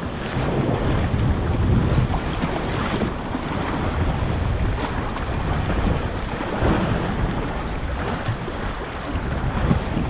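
Wind buffeting the microphone over the wash of sea waves around a sea kayak at sea, a steady rumbling rush without a break.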